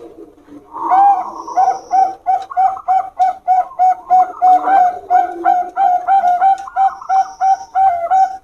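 Zebra doves (perkutut) of the Bangkok song strain cooing against each other: a quick, even run of short bright coos, about three a second, over a lower rolling coo.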